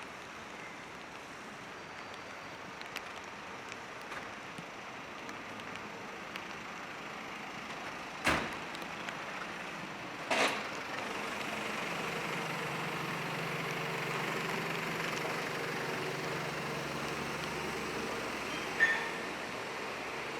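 Rainy city street: a steady hiss of rain and traffic, two sharp knocks a couple of seconds apart around the middle, then a vehicle engine running with a steady low hum. A short, sharp sound comes near the end.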